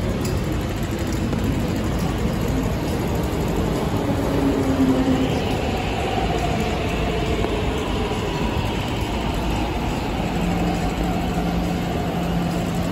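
East Rail line electric multiple-unit train pulling into a station platform: a steady running rumble with faint shifting motor tones.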